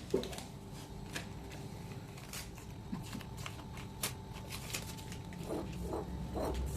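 Scattered light clicks and taps, as of small objects being handled, over a faint steady hum.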